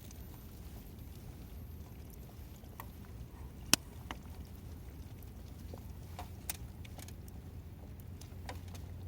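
Wood campfire crackling: scattered sharp pops and clicks, one much louder pop a little over a third of the way in, over a low steady rumble.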